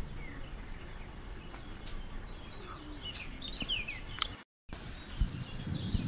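Outdoor marsh ambience with scattered short, high bird chirps, clustered about three seconds in. The sound drops out for a moment about four and a half seconds in, then resumes with more chirps.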